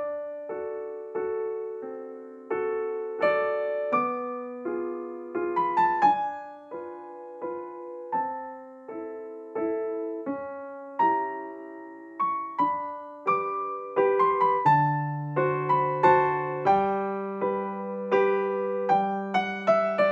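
Background music: solo piano playing a gentle melody with chords, each note struck and fading.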